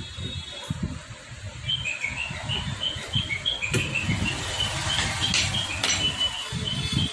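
A small bird chirping over and over, short high calls about three a second, starting a couple of seconds in. A few sharp metal clicks come from hand tools on the motorcycle engine being reassembled.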